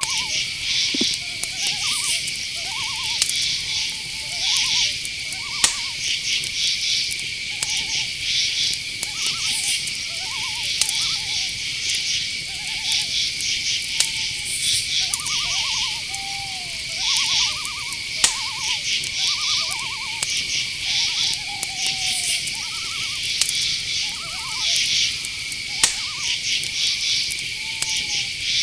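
Night-forest ambience: crickets and other insects trilling and chirping steadily, with many short, warbling hoot-like calls of owls over them. A few sharp clicks.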